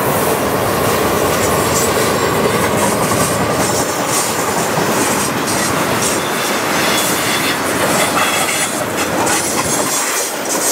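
Freight train tank cars rolling past, steel wheels clattering on the rails. The deep rumble drops away about ten seconds in as the last car goes by.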